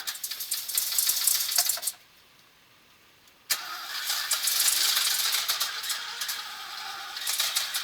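A V8-engined Sierra being cranked on its starter: about two seconds of rattly cranking, a pause of about a second and a half, then a second attempt that starts suddenly. The engine coughs unevenly as it tries to catch, easing to a lower, steadier sound near the end.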